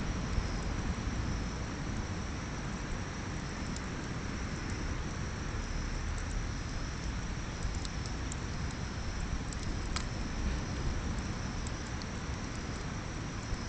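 Bonfire crackling, with scattered small clicks and a few sharper pops, over a steady low rumble.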